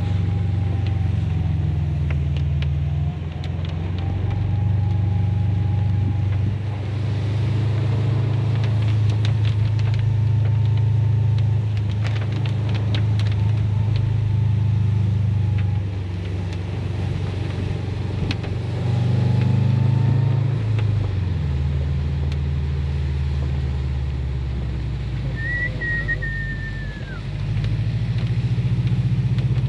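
Car engine and road noise inside a moving car. The engine note drops and rises several times as the revs change.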